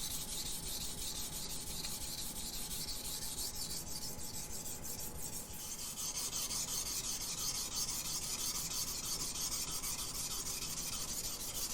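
Steel knife blade drawn back and forth across a 500-grit Shapton Glass whetstone in steady, continuous sharpening strokes, a scraping rasp. The sharpener is raising a burr on the edge.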